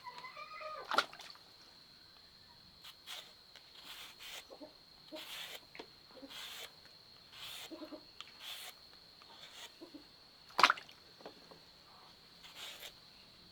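A short, high whining animal call at the start, then scattered light taps and knocks, two of them sharp, over a faint steady high-pitched whine.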